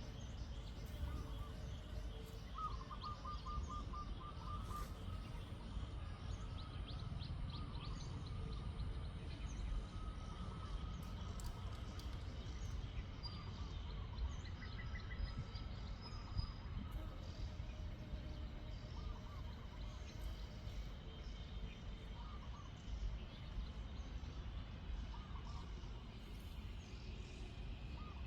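Outdoor ambience: a steady low rumble with scattered bird calls, including a rapid trill of repeated notes a few seconds in.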